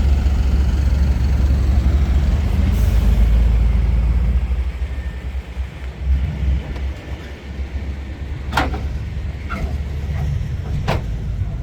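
Car engine running with a deep, loud rumble for the first four seconds or so, then fading and wavering. A few short, sharp knocks follow near the end.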